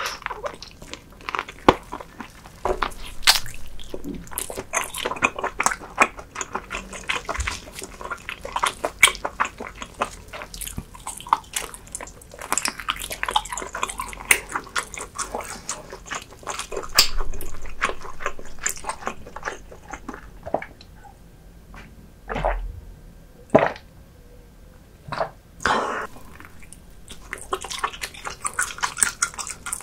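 Close-miked wet chewing and mouth sounds of someone eating spicy pork tails and beef bone marrow: dense runs of small sticky smacks and clicks. For a few seconds past the middle they thin out to a few single louder clicks.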